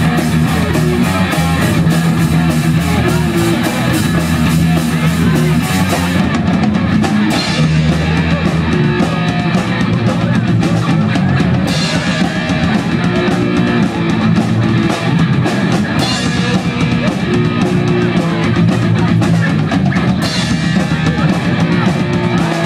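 Punk rock band playing live: electric guitars and a drum kit going hard and steady.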